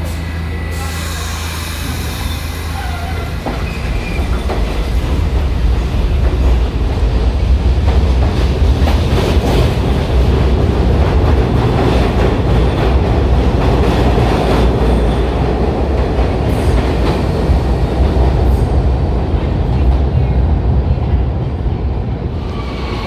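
New York City subway train running through the station, with a loud rumble and rattle of wheels on rail that builds about four seconds in and holds steady, easing near the end.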